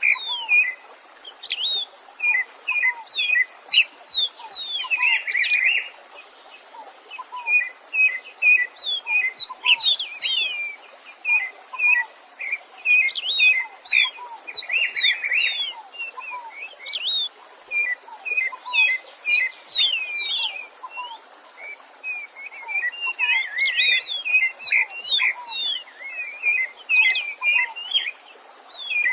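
A songbird singing bouts of quick, chirped and down-slurred whistled notes, a few seconds each, with short pauses between. A faint steady stream runs underneath.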